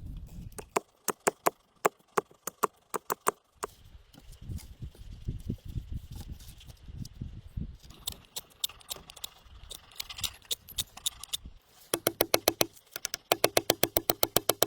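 Quick runs of sharp knocks, like strikes on wood, with rustling and low thumping between them. The last run near the end is faster and the loudest.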